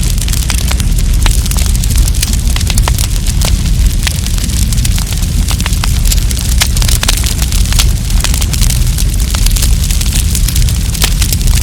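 Wood campfire crackling, with frequent sharp snaps and pops at irregular intervals over a steady low rush of burning.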